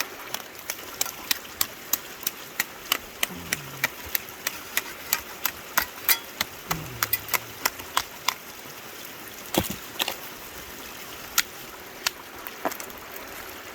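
Sharp, irregular clicks and taps, roughly two a second, of rock and gravel being knocked and broken up from bedrock, over a steady wash of running water.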